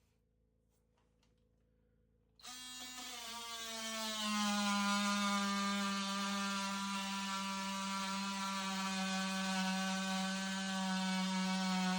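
Near silence for about two seconds, then an electric power tool motor starts and runs with a steady high hum, coming up to speed over the next second or two.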